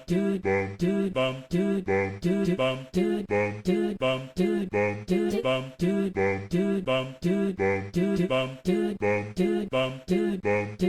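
Unaccompanied sung vocal music: a voice singing short, clipped syllables, about three a second, in a steady rhythm with a repeating melody.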